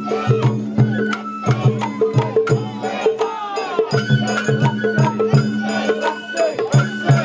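Sawara-bayashi festival music from the float's band: a bamboo flute holding high notes over a steady beat of taiko drums and sharp clangs of a hand gong.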